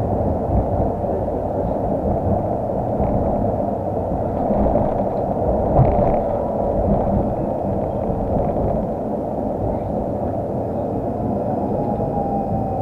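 Tram running, heard from inside the passenger car: a steady rumble of wheels on rails and running gear, with a single knock about six seconds in and a faint, slowly falling whine near the end.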